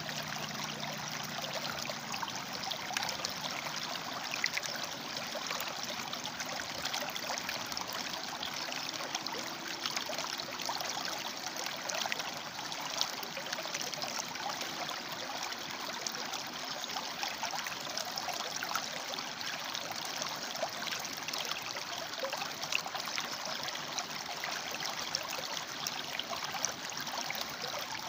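River water flowing and splashing among rocks: a steady babbling rush with fine bubbling detail.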